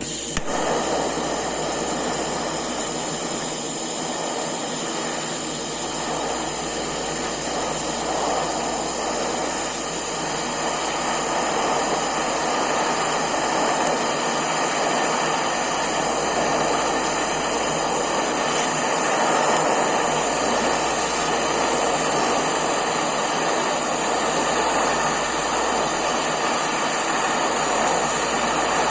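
TIG welding arc from an Eastwood TIG 200 burning on steel: a steady hiss that starts abruptly with a click as the arc strikes, over the steady hum of the machine.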